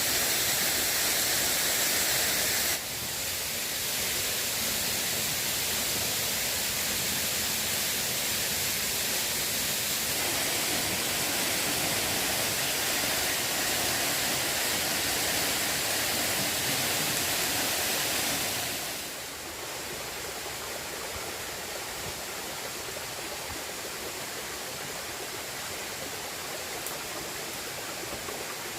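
Rushing river water, a steady hiss of flowing water. It changes abruptly about three seconds in and gets quieter about nineteen seconds in.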